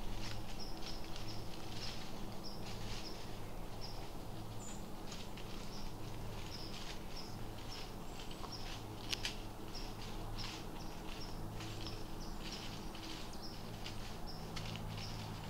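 Field-edge ambience: small birds giving repeated short, high chirps at irregular intervals over a steady low hum, with a few soft rustles, the sharpest about nine seconds in.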